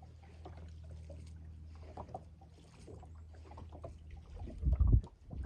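Steady low hum of a small fishing boat's motor, fading out after about three seconds, then a loud low thud near the end.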